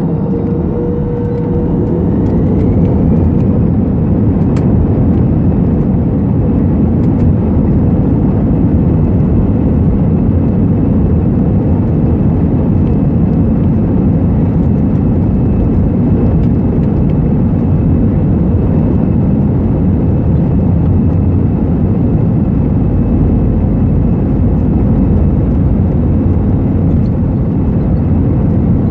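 Airbus A320-214's CFM56 jet engines heard from inside the cabin, spooling up to takeoff thrust: a rising whine over the first two or three seconds, then a loud, steady rush of engine noise.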